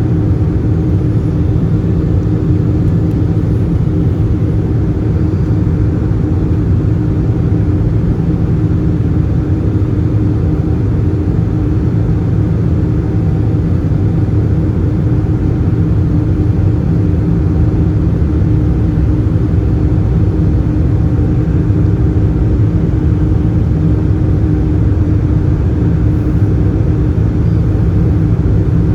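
Steady cabin noise inside an Airbus A320-214 in flight: a low, even drone of the CFM56 jet engines and airflow, with a few steady hum tones and no change throughout.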